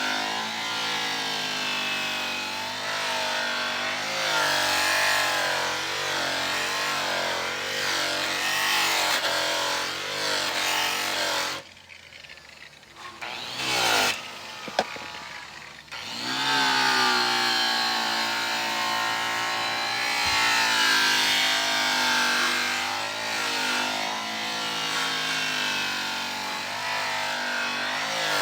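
Electric rotary polisher running while buffing a truck drive wheel, its motor whine wavering in pitch as the load on the pad changes. It cuts out for a few seconds about twelve seconds in, with a brief burst in between, then runs again.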